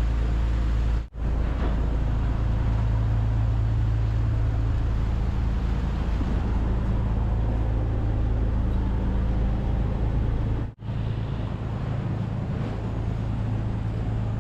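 Car ferry's ship engine running with a steady, deep drone, really loud on the open upper deck. The sound drops out for an instant twice, about a second in and near eleven seconds in, and the low rumble is a little weaker after the second break.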